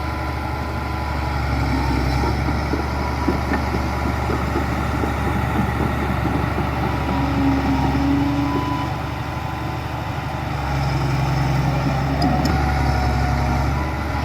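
Diesel engines of heavy earthmoving machines (bulldozer and dump truck) running steadily. The engine note shifts about ten seconds in and shifts back near the end.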